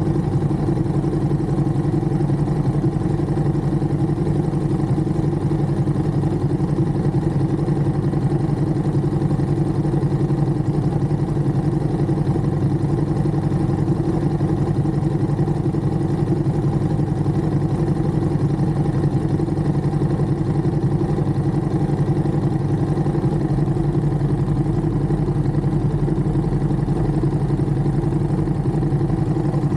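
Ducati Monster's V-twin engine running at a steady, unchanging pitch.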